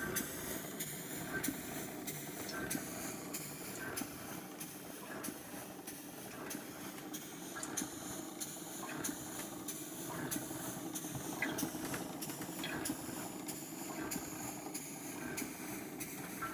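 Sanderson model steam beam engine running, a steady mechanical running noise with light clicks repeating regularly from its moving parts.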